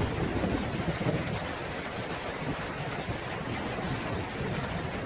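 Steady rain falling, with a low rumble of thunder underneath that is strongest in the first second or so and then eases.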